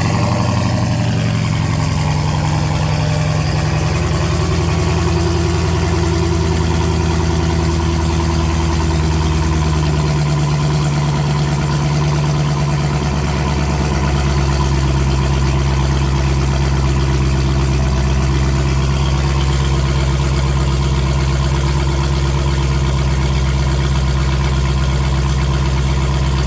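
Dodge Hellcat's supercharged 6.2-litre HEMI V8 idling steadily just after a cold start, the car having sat unused for two weeks; the idle note shifts lower about ten seconds in.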